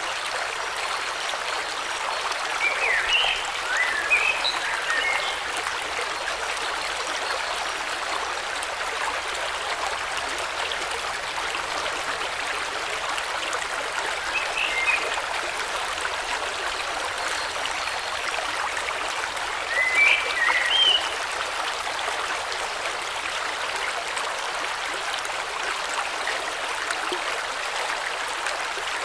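A river or stream flowing with a steady rush of water. Short bird chirps break in three times: a few seconds in, around the middle, and about two-thirds of the way through.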